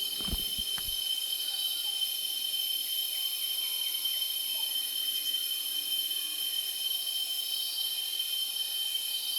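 Steady chorus of forest insects: a continuous high-pitched drone made of several unbroken tones. A few low thumps come in the first second.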